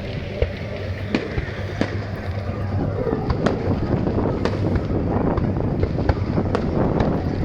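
Fireworks going off: scattered sharp bangs over a continuous background rumble. The bangs come faster and the din grows louder from about halfway through.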